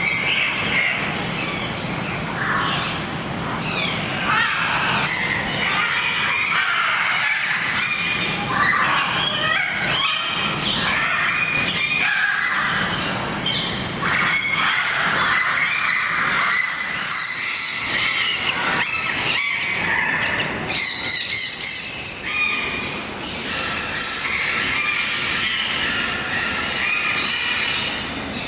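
Many birds squawking and calling at once, with short calls overlapping without a break.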